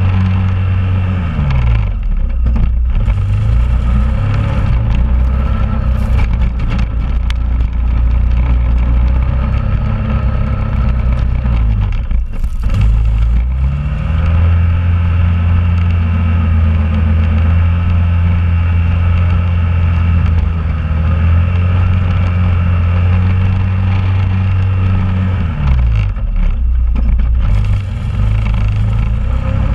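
2001 Honda Rubicon ATV's single-cylinder engine running while plowing snow. Its pitch drops about a second in, climbs again midway and is held high for about ten seconds, then drops near the end.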